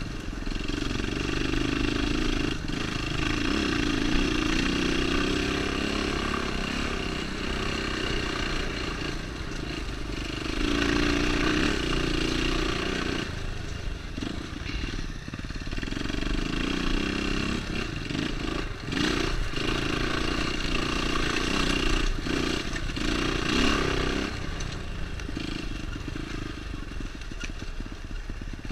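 Dirt bike engine running along a rocky trail, the throttle opened and eased off in surges every few seconds, with occasional knocks and clatter over the rocks.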